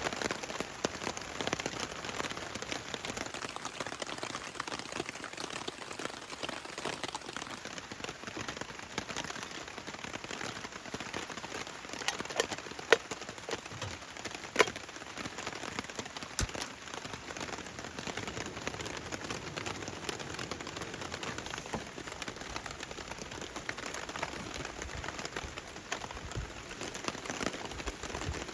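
Steady rain falling, with many small drop hits and a few sharper, louder ones about halfway through.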